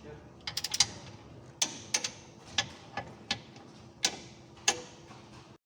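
Ratchet wrench clicking as the subframe and lower engine mount bolts are torqued: a quick run of clicks about half a second in, then single sharp clicks every half-second to second.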